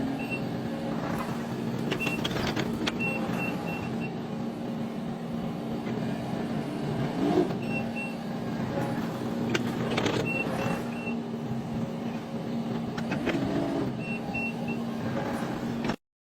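A heavy machine's engine running steadily, with short high warning beeps in runs of two to four and a few knocks. The sound cuts off abruptly just before the end.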